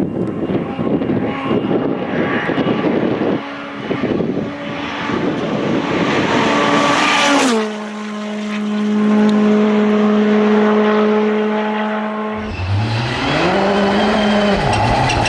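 Rally cars running flat out on a special stage. After a rough, noisy passage, an engine holds one steady note for several seconds. About twelve seconds in, another engine revs with its pitch rising and falling.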